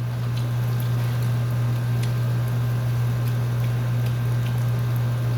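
Steady low hum with faint, scattered crackling of batter frying in hot oil in a pan.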